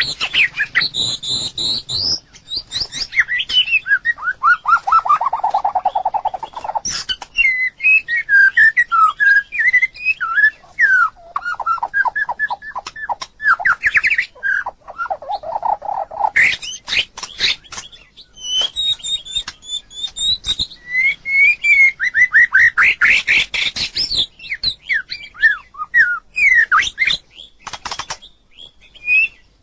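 White-rumped shama singing: a varied string of whistled phrases, with slow falling glides, fast runs of short repeated notes and brief pauses between phrases.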